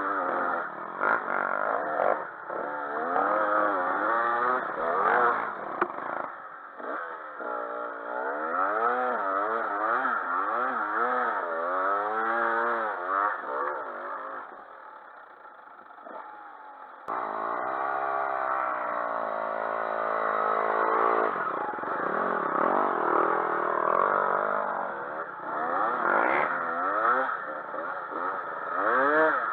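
Dirt bike engines revving up and down over and over as they are ridden, the pitch rising and falling every second or so. The engine sound fades for a few seconds past the middle, then comes back suddenly loud.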